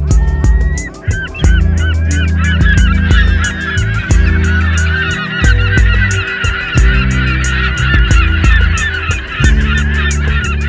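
A flock of birds calling, many short chirping calls overlapping densely. Underneath is background music with deep sustained bass notes and a fast regular ticking beat.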